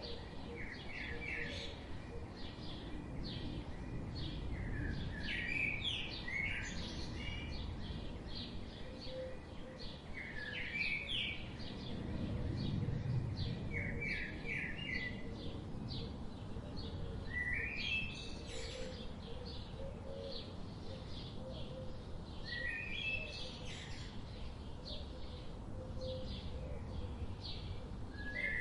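Birds chirping: a short phrase of quick rising notes repeats every few seconds among many rapid high chirps, over a steady low background noise.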